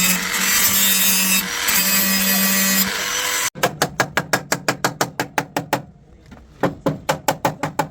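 A power tool runs with a steady hum for about three and a half seconds, then cuts off. Quick rhythmic scraping strokes follow, about five a second, in two runs with a short pause between: a hand tool worked back and forth over a car body panel during bodywork.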